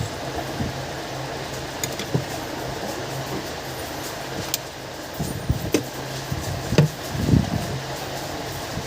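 A steady low fan-like hum, with a few small sharp clicks and soft taps scattered through it, typical of tools being handled on a repair bench.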